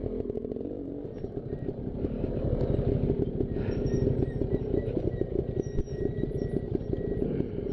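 Two-stroke dirt bike engine running at low trail speed with a fast, even pulse, getting louder about two seconds in.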